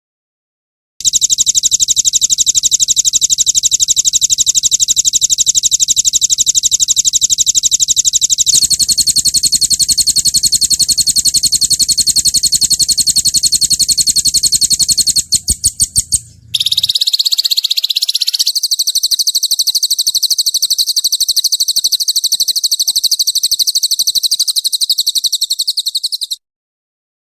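Songbird training-recording (masteran) of very fast, high-pitched rolling trills, the 'roll tembak' type of song. One long trill changes to a different pattern about a third of the way in, breaks into a stutter and a short falling phrase past the middle, then runs on as another high trill that stops suddenly.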